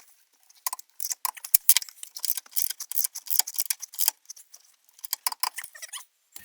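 Metal hand tools clicking and clinking in quick, irregular runs: a ratchet and sockets being worked and handled after torquing the rear shock's upper nuts.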